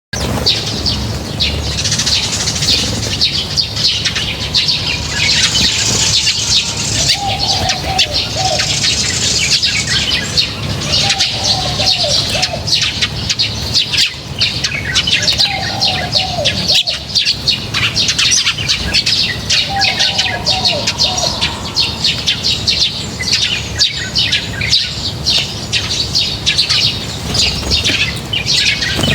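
A flock of small birds chirping densely and continuously. A lower falling call series sounds four times, about every four seconds, through the middle.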